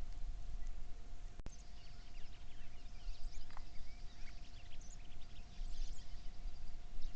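Small birds chirping, with many short, scattered high calls over a low rumble and a faint steady hum.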